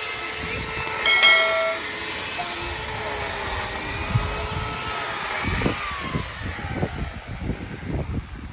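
Outdoor noise in a strong wind: a steady rush with faint steady tones, a brief horn-like tone about a second in, and gusts buffeting the microphone in the last few seconds.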